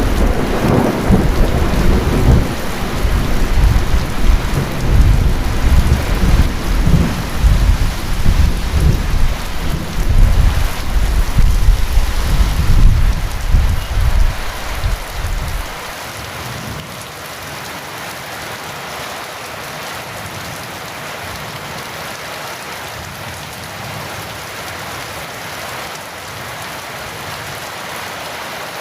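Heavy rain pouring steadily, with a long rolling rumble of thunder under it for the first half. The thunder stops abruptly about halfway through, leaving only the even hiss of the rain.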